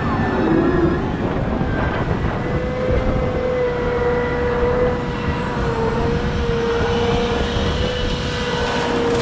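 Heavy diesel machinery running steadily. A constant whine joins the engine noise about two and a half seconds in.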